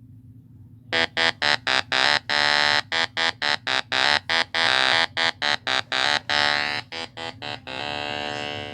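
A buzzy horn sounding in an irregular run of short and longer blasts, starting about a second in and ending in one longer, quieter blast.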